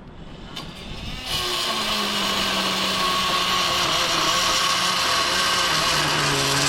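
Reciprocating saw cutting through a metal weld. It starts about a second in, runs steadily with its motor pitch slowly sagging under the load, and cuts off abruptly near the end.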